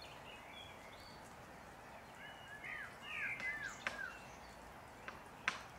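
Songbird calling in the open: a short phrase of four or five quick arched chirps a few seconds in, over a faint steady background. Near the end a couple of sharp taps begin.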